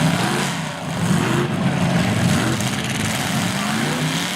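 Demolition derby car engines running and revving, their pitch rising and falling repeatedly, over a haze of general noise.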